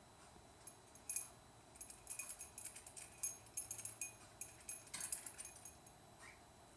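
Small metal bell toy jingling in quick, irregular rings as a cockatiel jostles it. The jingling starts about a second in and stops near the end.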